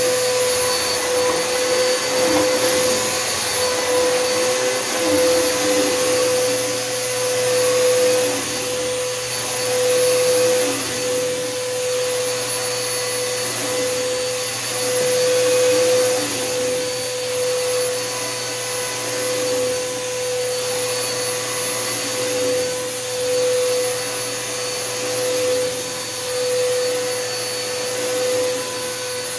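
Bissell Helix Power vacuum cleaner running on carpet: a steady motor whine over the rush of suction, its loudness swelling and easing every few seconds.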